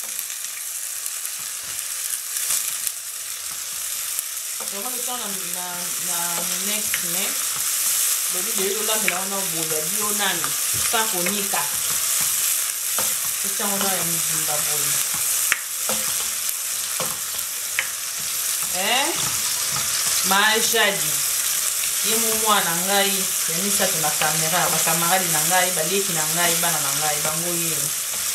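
Sliced onions and green peppers sizzling as they fry in oil in a pot, stirred with a plastic spoon. From about five seconds in, a person's voice hums along in long held notes over the sizzling.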